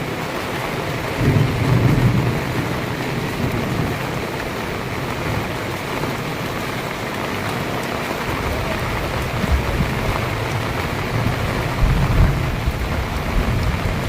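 Heavy rain pouring steadily, with low rumbles of thunder swelling about a second in and again near the end.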